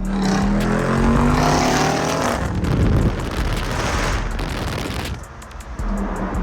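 Car engine revving up under hard acceleration, its pitch climbing for a couple of seconds, then running on more roughly and settling to a steady note near the end.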